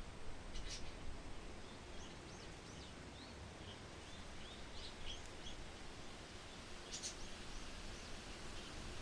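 Small birds chirping in short, high, scattered notes over a steady background of wind and outdoor noise, with two sharp clicks, one about a second in and one near the end.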